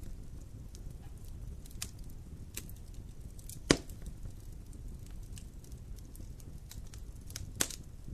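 Wood campfire crackling over a low steady rumble, with scattered small snaps and two sharp loud pops, the louder one about halfway through and another near the end.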